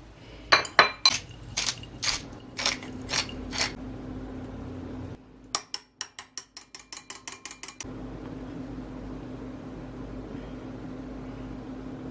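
Cooking utensils knocking against dishes and pans: a run of sharp clinks and knocks, then a quick, even series of about a dozen taps. A steady hum follows.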